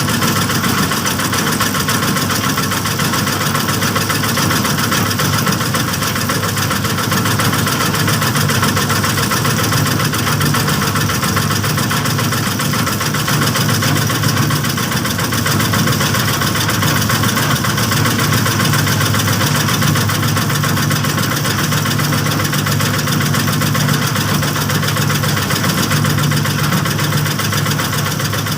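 Small stationary engine running steadily at a constant speed, a continuous drone with a fast, even firing pulse.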